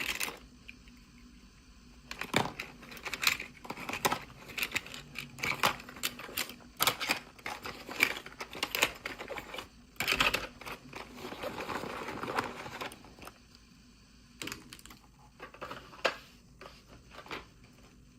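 Small plastic toy pieces and packaging being handled during an unboxing: quick irregular clicks and taps, with a stretch of rustling and crinkling near the middle, then a few last clicks.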